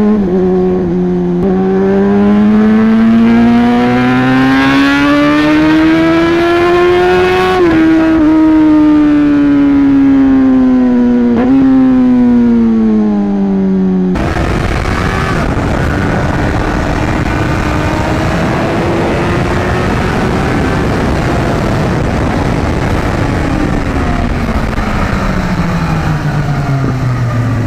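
Motorcycle engine under hard acceleration, its pitch climbing with brief breaks at the gear changes and then falling away as the throttle eases. About halfway through it cuts to a different, noisier engine sound that also drops in pitch toward the end.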